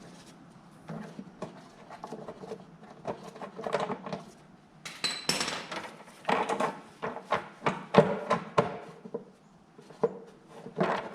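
Metal tools and snow thrower parts clinking and knocking in an irregular string of sharp taps, busier and louder in the second half.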